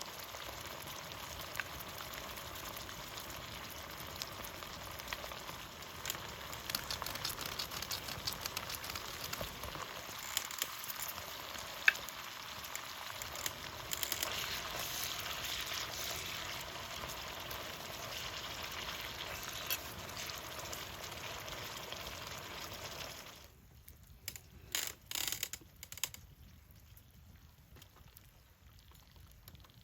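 Food sizzling and crackling as it fries in a pan. The sizzle stops abruptly about 23 seconds in, and a few sharp knocks follow.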